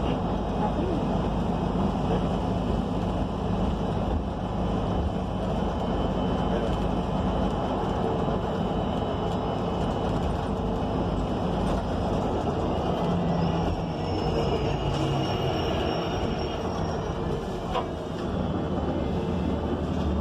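Inside a 2019 ENC Axess BRT city bus on the move: its Cummins Westport L9N natural-gas engine running under the road and tyre noise of the ride. A faint high-pitched whine comes in through the middle, and a single knock sounds near the end.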